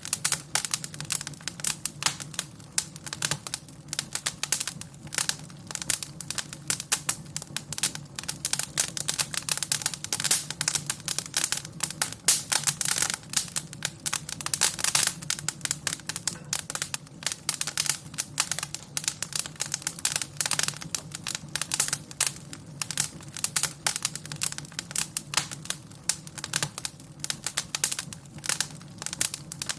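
Fire crackling in a fireplace: a dense, irregular run of small sharp pops over a low steady hum.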